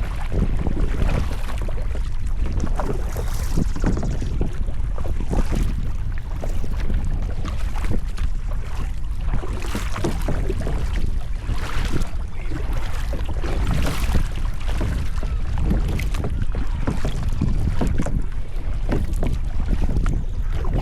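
Water splashing and sloshing irregularly around a sit-on-top kayak under way, with heavy wind rumble on the microphone throughout.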